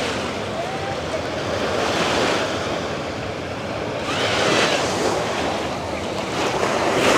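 Ocean surf breaking on a beach, surging louder three times, with wind buffeting the microphone.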